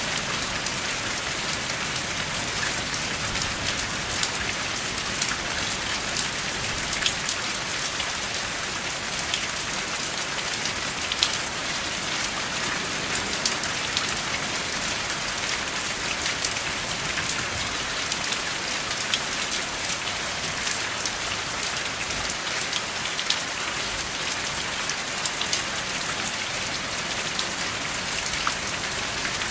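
Steady rain without thunder, an even hiss of falling water with many individual drop hits scattered through it.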